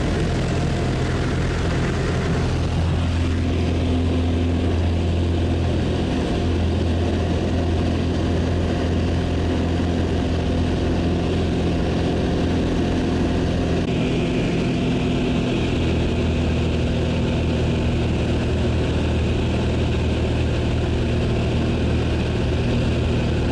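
Propeller-driven jump plane's engine running steadily, a continuous low drone whose tone shifts partway through.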